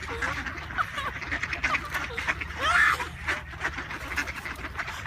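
Birds calling: many short, overlapping calls through the whole stretch, over a steady low hum.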